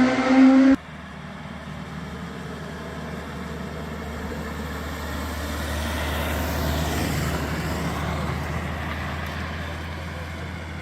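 A historic competition car's engine at high revs, cut off abruptly under a second in. Then a more distant car engine swells and fades as another car goes by on the climb.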